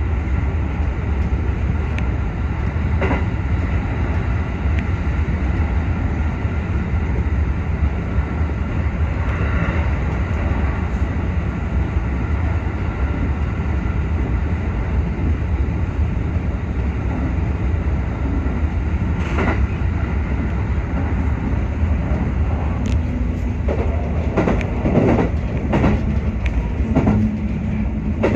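Inside a JR West 221 series electric train running at speed: a steady low rumble, with wheel clicks over rail joints now and then and a quick run of clacks near the end.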